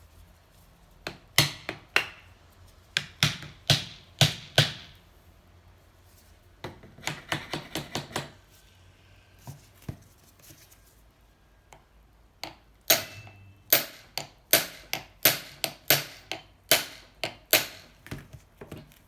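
Hammer blows on the seized engine of a Honda C70, struck to try to free the stuck piston and crank. The blows come in three runs: about seven sharp strikes early on, a quicker, lighter run of taps in the middle, and a long run of strikes at about two a second near the end.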